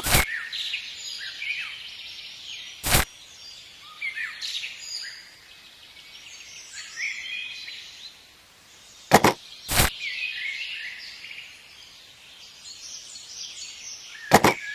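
Birds chirping, short calls sweeping up and down in pitch throughout. Five sharp clicks cut through, two of them close together past the middle.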